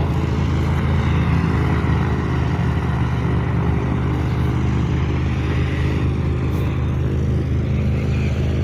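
Steady, loud mechanical hum of a Boeing 737-700 airliner running on the apron, a deep drone with a rushing hiss above it that holds level throughout.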